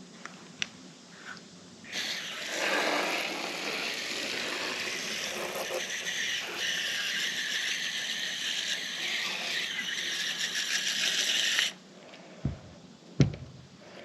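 Water spraying from a pump-up spray bottle onto an RV air conditioner's evaporator coil to rinse it: a steady hiss for about ten seconds that cuts off suddenly. A few light clicks and knocks come before and after it.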